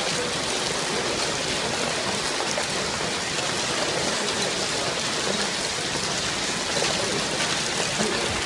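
Heavy rain and hail of a hailstorm falling on clay roof tiles, a dense steady hiss.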